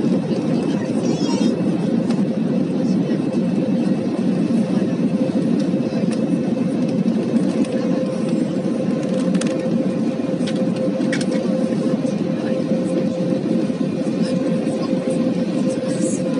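Steady roar of an Airbus A320's engines and airflow as heard inside the cabin, with a constant hum running through it and a few faint clicks.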